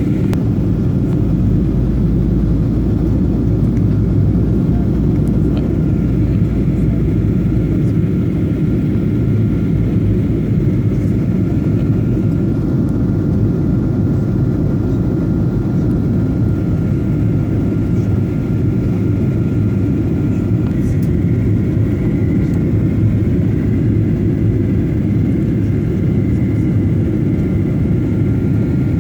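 Steady low rumble of an airliner's engines and airflow heard from inside the passenger cabin during the approach for landing, with a faint steady whine above it. The deepest part of the rumble eases about eight seconds in.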